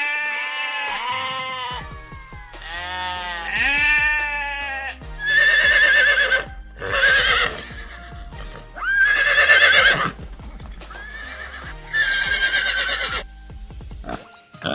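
Recorded farm animal calls repeated over background music: two long drawn-out calls, then four shorter wavering calls.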